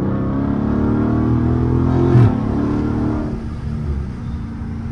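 Dodge Charger Scat Pack's 392 (6.4-litre) HEMI V8 pulling hard under acceleration, heard from inside the cabin. The engine note climbs, then drops sharply about two seconds in as it shifts up, and eases off and quietens toward the end.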